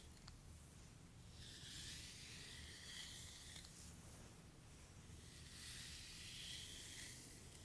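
Faint, soft swishing strokes through hair, in two long sweeps of about two seconds each.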